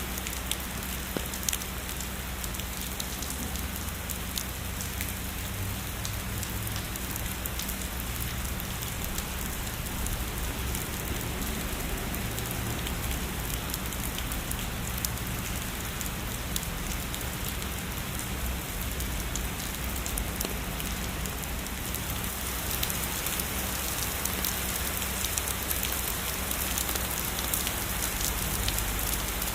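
Heavy rainfall pouring steadily, a dense hiss with many single drops ticking on a surface. About two-thirds of the way through the rain grows a little louder and hissier.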